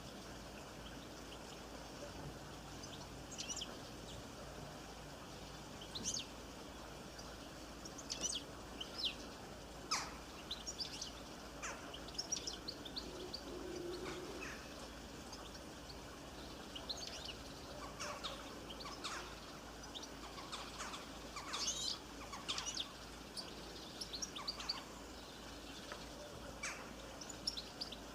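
Birds chirping and calling on and off, short scattered chirps over a steady faint background hiss.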